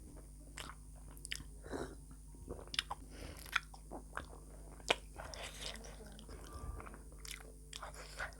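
A person chewing a mouthful of pork momo: faint, irregular wet mouth clicks and smacks.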